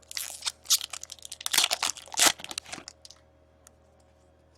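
Crinkling and tearing of a 2016-17 Upper Deck SP Authentic hockey card pack wrapper being ripped open, a run of crackling rustles that stops about three seconds in.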